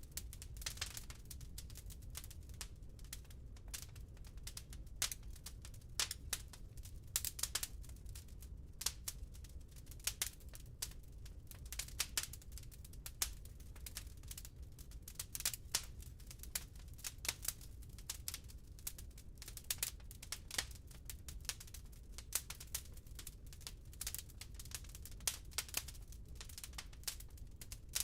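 Burning firewood crackling in a fireplace: irregular sharp pops and snaps, several a second, over a low, steady rumble of the fire.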